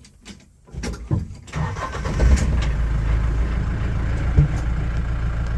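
Mahindra Roxor's four-cylinder turbo-diesel engine starting about two seconds in and settling into a steady, tractor-like idle, heard from inside the cab.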